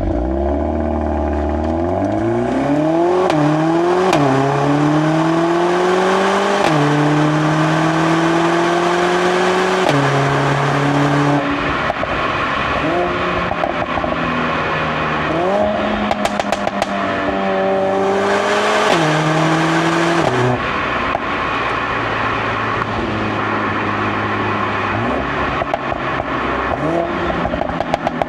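Mercedes-AMG A45 S's turbocharged 2.0-litre four-cylinder engine and exhaust accelerating hard from the start through a quick run of upshifts, its pitch climbing and dropping at each shift. It then runs through further rises and drops in revs, with bursts of exhaust crackles about halfway through and again near the end.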